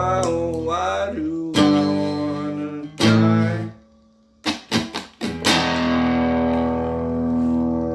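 Guitar, plugged in through effects, strumming chords: a held chord, two hard strums about a second and a half apart, a brief near-stop, a few quick short strums, then a final chord struck and left to ring.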